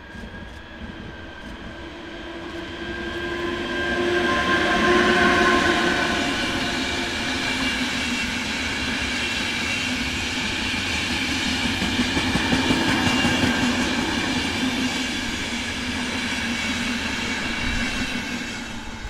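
A train passing close by. It builds up to a whining passage with several steady tones, loudest about five seconds in. Then the wagons roll past with steady wheel noise and rhythmic clatter, which drops away abruptly near the end.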